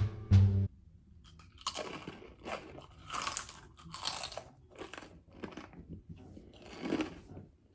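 Crunchy spicy tortilla chip being chewed in a mouth: a run of irregular, uneven crunches. A brief snatch of music is heard at the very start.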